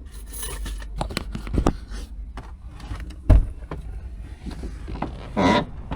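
Scattered knocks and clicks, with one sharp, heavy thump about three seconds in and a short, louder rustling sound near the end.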